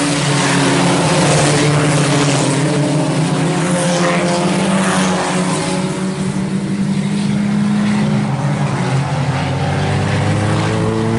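Several four-cylinder IMCA Sport Compact race cars running together around a dirt oval, their engines holding high revs in a steady blend of tones that rise and fall as the cars go around.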